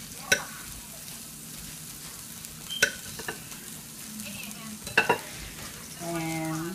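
Steady sizzle of food frying in a pan, with a few sharp clicks about a third of a second in, near three seconds and near five seconds as a knife cuts through a chilled roll of herb butter. A short low hum comes near the end.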